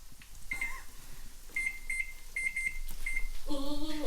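Short electronic beeps at one pitch, about seven at irregular spacing, like the keypad of a kitchen timer or appliance being pressed to set the cooking time. A short pitched sound comes near the end.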